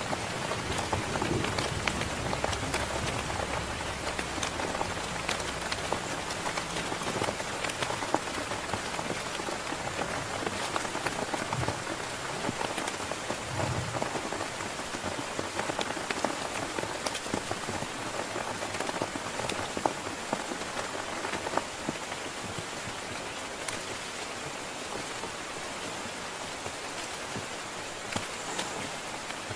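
Heavy rain falling steadily, with many distinct drop hits on a near surface. The tail of a thunder rumble fades out over the first few seconds.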